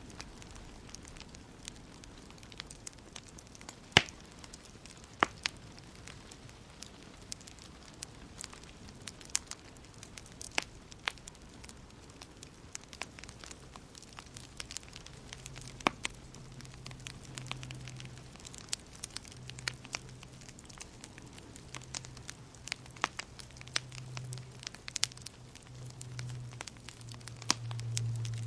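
Fire in a fireplace crackling, with irregular sharp pops, one of the loudest about four seconds in. A low hum comes in about halfway through and grows louder toward the end.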